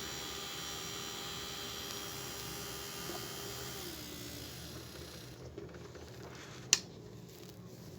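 Small hair-dryer DC motor spinning its fan on a bench power supply, a steady whine; about four seconds in the pitch falls as it slows, and it runs down to a stop a little after five seconds. A single click follows near the end.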